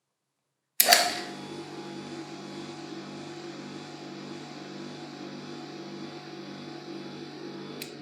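Restored 1976 220V bench polisher motor switched on with a sharp click and running at a steady hum. It is switched off with another click near the end and begins to spin down.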